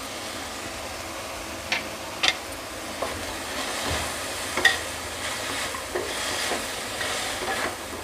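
Chopped onion, tomato and cashews sizzling in a little oil in a kadhai, stirred with a wooden spatula. The spatula scrapes and knocks against the pan several times, the sharpest knock a little over halfway.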